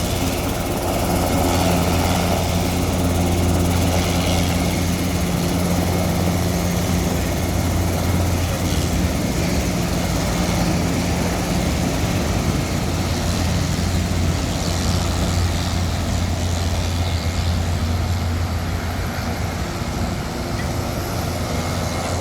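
Helicopter running steadily: a constant low rotor and turbine hum over a broad rushing noise, with a higher steady tone that fades out about halfway through.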